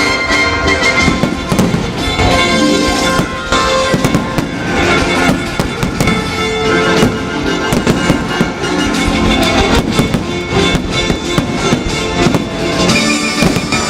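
Fireworks going off in many rapid bangs, with music playing throughout.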